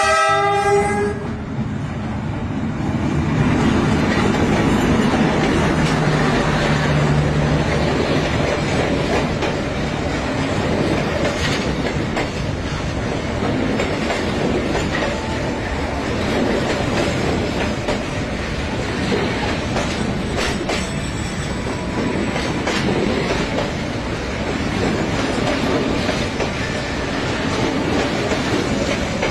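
Diesel passenger train's horn sounding and stopping about a second in, then the locomotive passing close with its engine running, followed by the carriages rolling by with a steady rumble and clatter of wheels on the rails.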